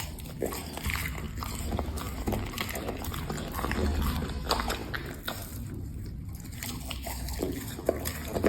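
A dog chewing and eating food: irregular short smacks and crunchy clicks, several a second.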